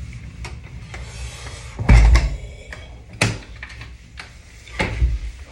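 Three heavy thumps and knocks, about two seconds in, a second later and near the end, with faint rubbing and rustling between them.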